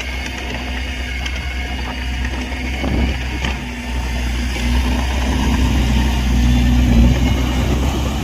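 Heavy diesel engine of earthmoving machinery running steadily, growing louder through the second half.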